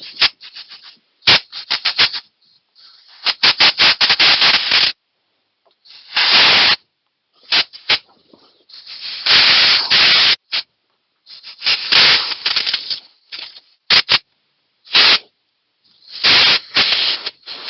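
Compressed-air blow gun fired in repeated short bursts of hissing air, some broken into rapid pulses, blowing grit and rust out of the threaded bolt holes in an excavator's final drive hub.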